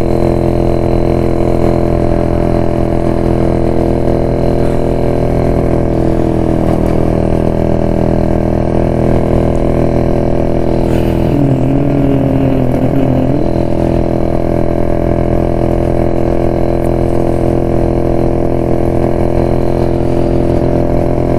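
1972 Jawa motorcycle's two-stroke single-cylinder engine running steadily while riding at an even speed. A brief wavering tone sounds about halfway through.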